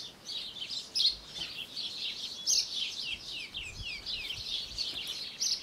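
Small birds chirping and twittering continuously in many quick, high, falling notes, with a few louder notes standing out now and then.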